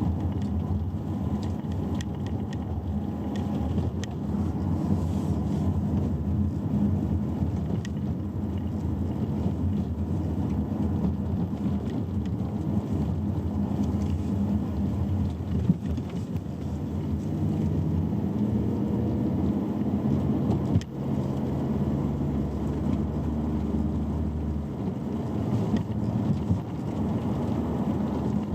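Chery Omoda being driven: steady road and tyre noise over a low engine or drivetrain hum that drifts up and down in pitch. A single sharp click about two-thirds of the way through.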